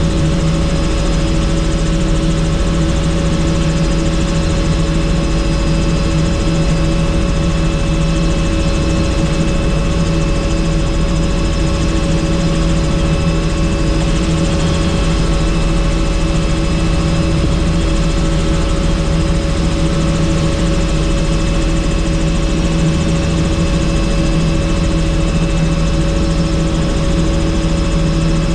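Helicopter in flight, heard from on board: a loud, steady drone of rotor and engine with constant whining tones.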